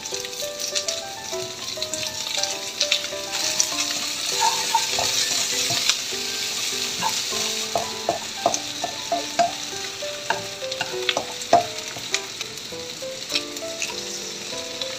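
Onions, garlic and sausage pieces sizzling as they fry in a nonstick wok, loudest about four to six seconds in. A spatula stirs and ticks against the pan through the middle. Soft background music with a light melody plays underneath.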